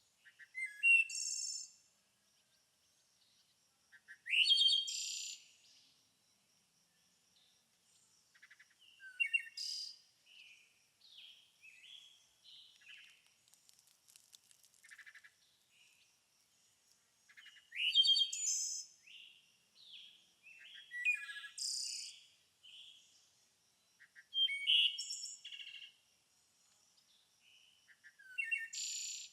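Songbirds singing: short, high, varied phrases a few seconds apart, over a faint steady high tone.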